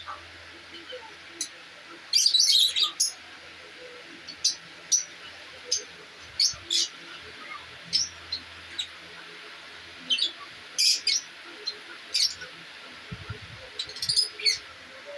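Small aviary birds chirping and tweeting in short, sharp, irregular calls, with denser bursts of chirping about two seconds in and again about eleven seconds in.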